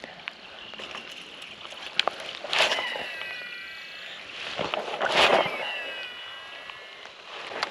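Two casts with a Shimano SLX DC baitcasting reel: a click as the spool is freed, a swish of the rod, then the reel's digital brake whining as the spool spins and slows. Light rain hisses steadily underneath.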